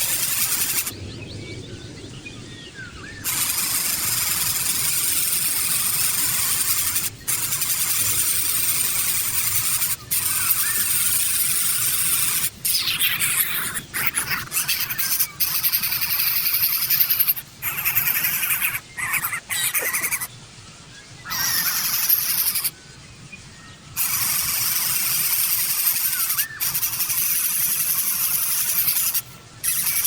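Steady high-pitched hiss, cutting out briefly several times, with a few faint bird chirps through it.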